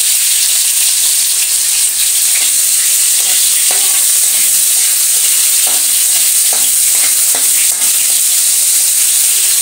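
Cooking oil sizzling steadily in a wok over a gas flame as chopped onion and tomato fry, with a couple of faint clicks.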